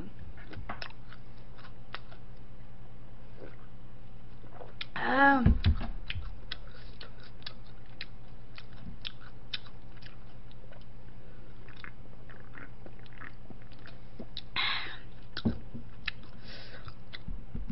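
A person chewing and biting food close to the microphone, with scattered wet mouth clicks. There is a short hum from the eater's voice about five seconds in, and a steady low electrical hum underneath.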